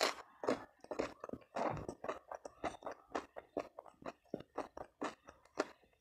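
Close-miked chewing and crunching of crisp food in a mukbang, many irregular crisp crunches a second.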